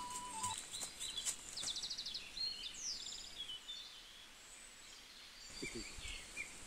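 Small birds chirping in quick repeated trills over a faint steady high hiss of outdoor ambience.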